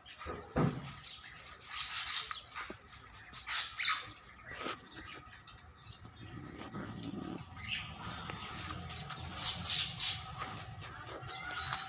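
Birds squawking in short, scattered calls, the loudest about four seconds in and again near the end.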